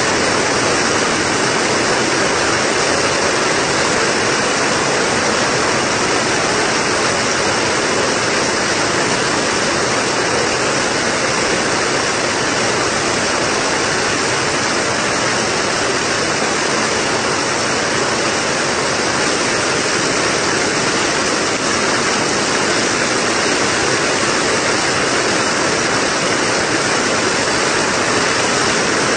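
Heavy rain falling on a tent's fabric roof, a steady, unbroken hiss with no thunder.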